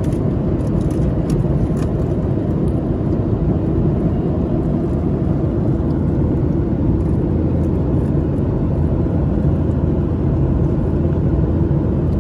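Airliner cabin noise in flight: the steady low roar of the jet engines and airflow, unchanging throughout, with a few faint ticks in the first couple of seconds.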